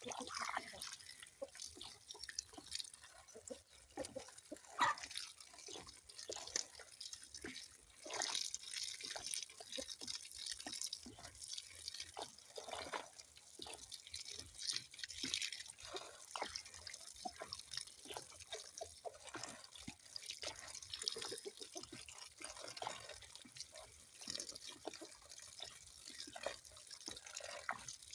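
Water dripping and splashing in many quick, irregular drops.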